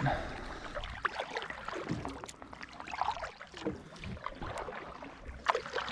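Kayak moving on the water while trolling: light splashes and water lapping around the hull, with scattered small knocks and clicks.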